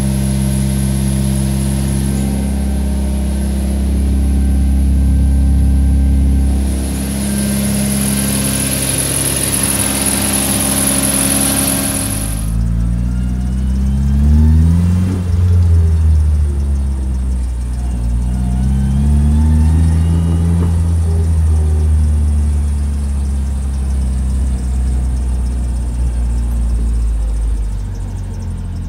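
Turbocharged Toyota 4A-GZE four-cylinder engine of an AE86 Sprinter. First it runs steadily, lifting briefly once, with a high whine over it in the second part. Then, after an abrupt change, it is on the move, revving up and dropping back several times.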